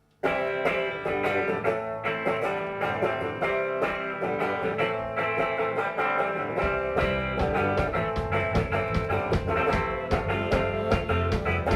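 Instrumental opening of a live band song: a guitar strummed in a steady rhythm starts suddenly, and low bass notes join about two-thirds of the way through.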